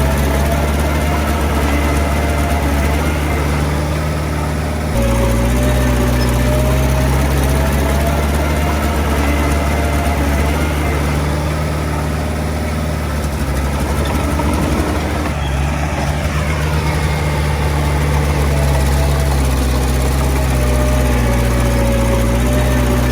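Diesel engine of heavy earthmoving machinery running steadily, with a thin wavering whine above the low engine note. The engine note changes abruptly about five seconds in and eases and shifts again around fifteen seconds.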